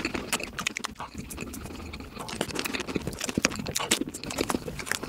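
Close-up mouth sounds of chewing soft chocolate cake: a rapid run of wet clicks and lip smacks.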